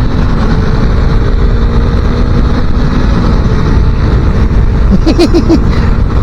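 250cc motorcycle engine running at a steady cruising speed, half buried under heavy wind rush on the microphone, as the bike overtakes. About five seconds in comes a quick run of four short pitched notes.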